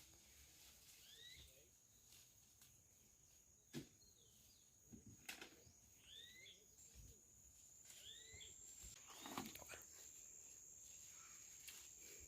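Faint outdoor ambience: a steady high insect drone, with a bird giving the same short chirp about four times and a few light clicks.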